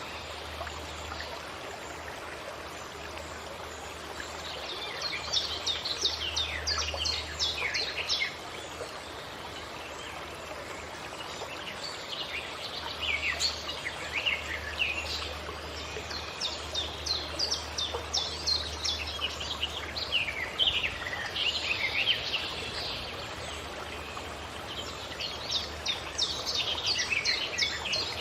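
Forest birdsong in four bouts of rapid, mostly falling chirping notes, over a steady background hiss.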